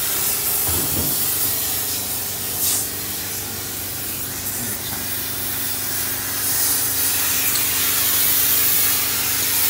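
Cutting torch hissing steadily as it burns through and cuts off a truck's old exhaust pipes, over a steady low hum.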